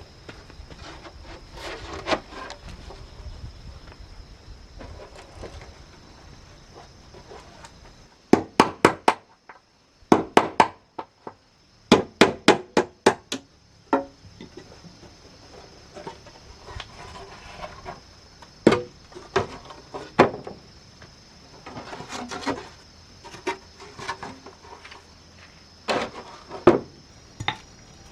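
Hammer striking wood in quick runs of four or five blows, with pauses between the runs, over a steady high-pitched tone.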